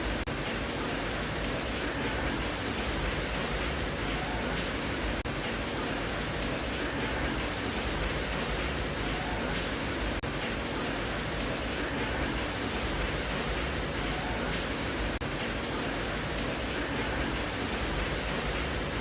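Steady rain falling, a dense even hiss with no let-up, with a faint tick about every five seconds.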